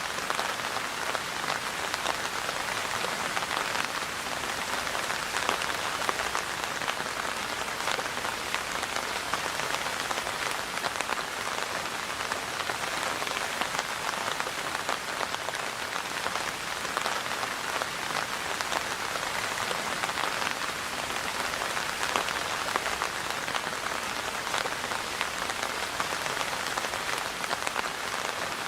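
Steady rainfall, a dense even patter of many drops hitting a surface.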